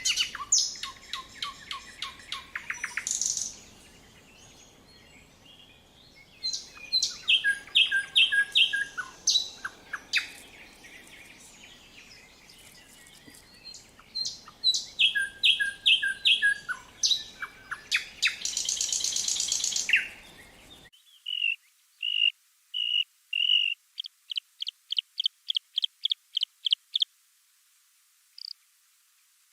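Recorded songbirds of May woodland singing: varied whistled phrases with trills and runs of repeated notes. About two-thirds of the way through, the recording cuts abruptly to a cleaner one with no background noise: a steady series of short, evenly spaced high notes that step up in pitch partway along.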